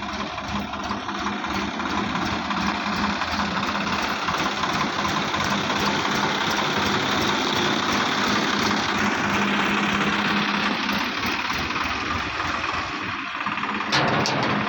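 Mahindra 605DI tractor's diesel engine idling steadily, with one short sharp knock near the end.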